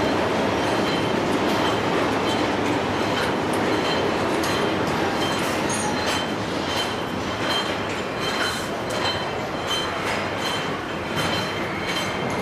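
Car assembly line noise: a steady machinery din with repeated sharp metallic clicks and clanks, which come more often in the second half, and two faint steady high-pitched whines.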